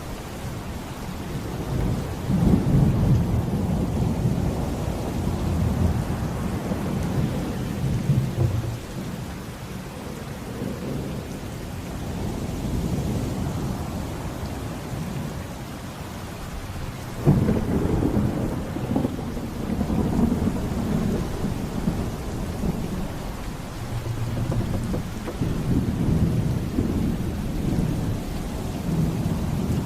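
Rain falling steadily through a thunderstorm with rolling thunder: a long rumble from about two seconds in, then a sudden clap a little past the middle that rolls on in repeated rumbles.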